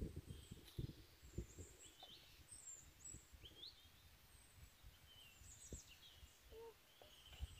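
Near silence with a few faint, short bird chirps and some soft low thumps.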